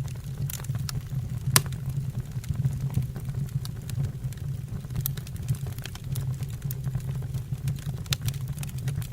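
Wood fire burning in a fireplace: irregular sharp crackles and pops from the burning logs over a steady low rumble of the flames, with one loud snap about a second and a half in.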